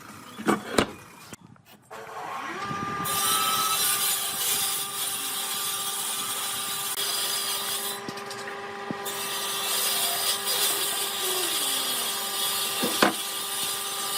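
Electric woodworking power tool spinning up, then cutting wood in two long passes with a short pause between. The motor holds a steady whine and there is a loud hiss of cutting. A couple of wooden knocks come at the start and another near the end.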